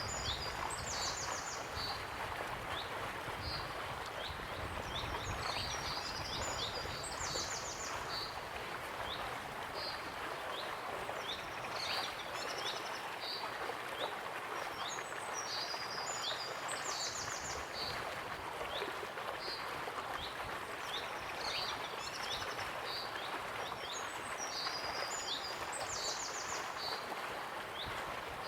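Waterfall rushing steadily, with a songbird singing the same short high phrase ending in a quick trill four times, about every nine seconds, and scattered short chirps between.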